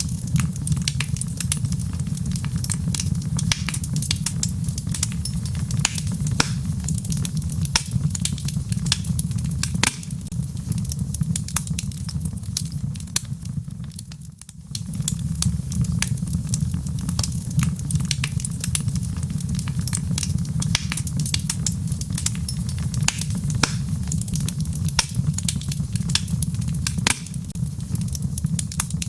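Wood fire burning in a fireplace: a steady low rumble of flames with frequent sharp crackles and pops from the logs. The sound dips briefly about halfway through, then comes back.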